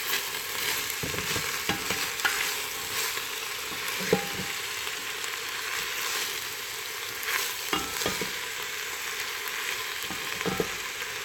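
Food sizzling and frying in a pot while being stirred, with a utensil knocking against the pot now and then.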